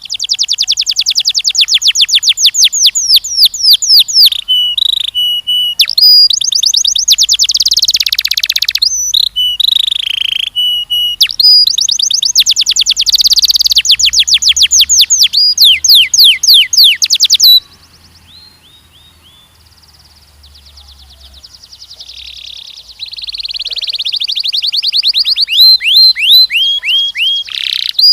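Canary singing long, loud, fast trills of repeated falling notes, broken by a pause of a few seconds about two-thirds of the way in before the song starts again.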